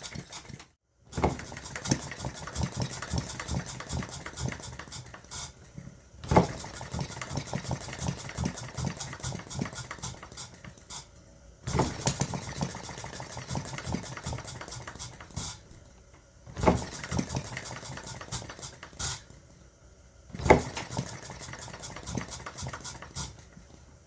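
1/8 scale model Reid two-stroke engine on propane trying to start: about five times it fires with a loud pop, runs briefly in a rapid chatter of firing beats, then dies away. Its ignition timing is a little off, by the owner's account.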